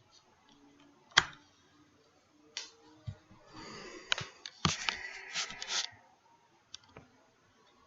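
A sharp click about a second in, then a few more clicks and about two seconds of rustling mixed with clicks, typical of a device being handled.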